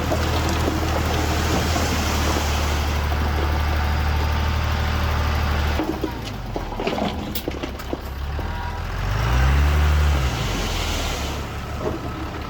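Heavy diesel earthmoving machinery running steadily, then dropping off about six seconds in. A few seconds later an engine revs up and back down once, the loudest moment.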